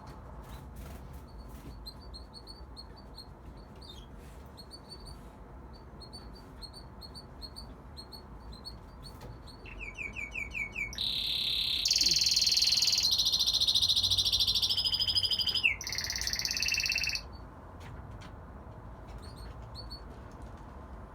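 Young male red factor canary singing: soft, high repeated chirps, then about halfway a loud song of rapid trills and rolling phrases lasting some seven seconds, which stops abruptly before the soft chirps resume.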